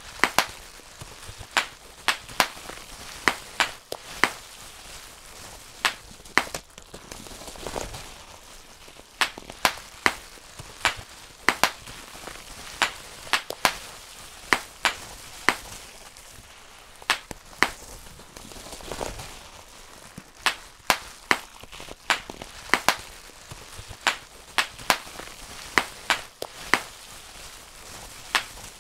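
Bubble wrap being popped one bubble at a time by hand: sharp single pops at an irregular pace of one or two a second, with the plastic sheet crinkling and rustling between them.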